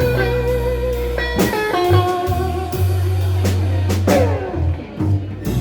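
Live blues band playing an instrumental break: electric guitar lead with held, bending notes over bass and drums.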